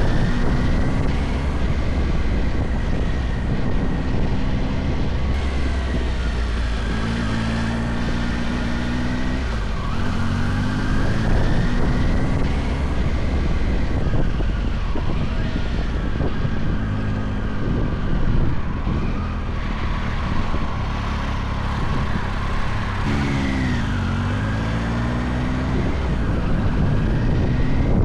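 Motorcycle engine pulling under way, its pitch climbing and dropping back several times as it goes through the gears, with a slow-down and pick-up a little before the end. Wind noise rushes over the microphone throughout.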